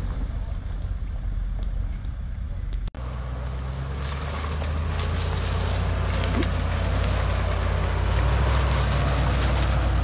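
Land Rover engine running steadily, with a hiss of noise above it. It breaks off abruptly about three seconds in, then resumes and grows louder over the following seconds.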